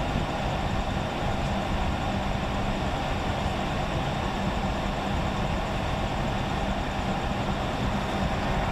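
Steady noise inside a car's cabin: the engine running with the heater's defroster fan blowing at a high setting, an even rushing hiss over a low hum.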